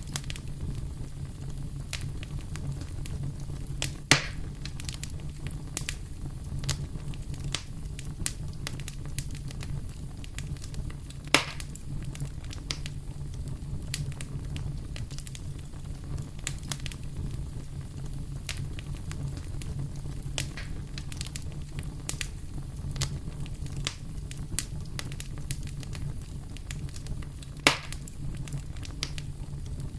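Wood fire crackling in a fireplace: many irregular small snaps and pops over a steady low rumble, with three louder pops spread through.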